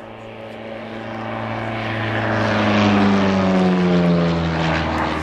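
Scottish Aviation Bulldog's 180 hp flat-four Lycoming engine and propeller making a flying pass. It grows louder to a peak about three seconds in, then its pitch drops as it passes and draws away.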